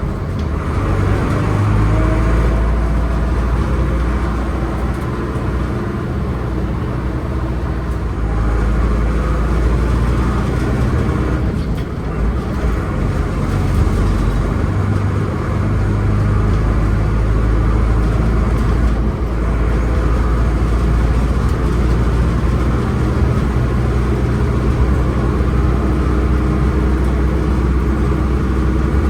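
Mercedes-Benz 811D fire truck's diesel engine running steadily as the truck drives, with a few brief dips in level.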